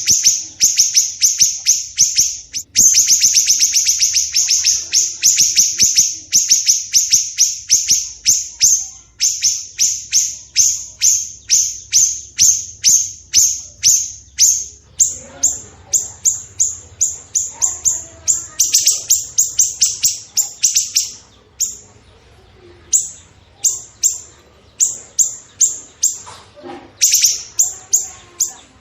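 Songbird birdsong recording made for training caged birds: a fast, harsh run of sharp repeated notes, about six a second, that breaks into shorter bursts with pauses after about fifteen seconds.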